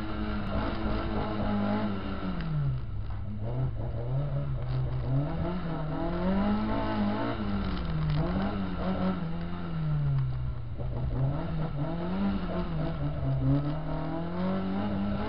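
A car engine, heard from inside the car, revving up and falling back again and again as it accelerates and slows between turns on a cone course. Its pitch drops about two and a half seconds in, then climbs and sinks several more times.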